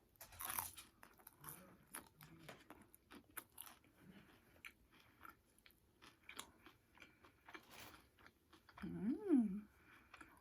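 Close-up chewing and mouth sounds of a person eating Chinese takeout food: irregular small crunches, smacks and clicks. Near the end, a short hum that rises and falls in pitch.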